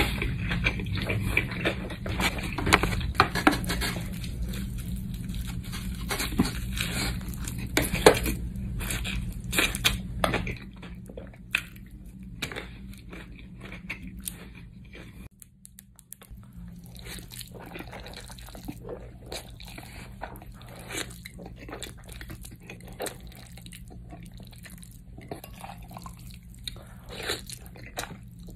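A person chewing food close to the microphone, with many small wet smacks and clicks of the mouth. A low steady hum sits behind it and drops away about ten seconds in.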